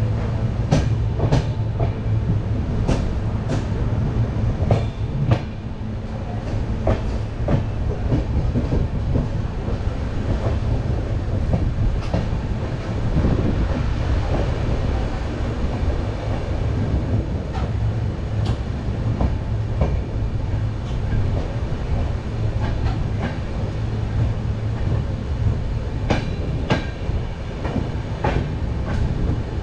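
Passenger train running slowly, heard from aboard: irregular sharp clicks of the wheels over rail joints and points over a steady low rumble of the coaches.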